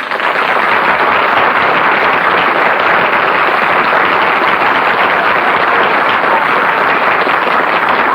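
Studio audience applauding, loud and steady, starting suddenly, heard on a heavily compressed 1937 radio broadcast recording.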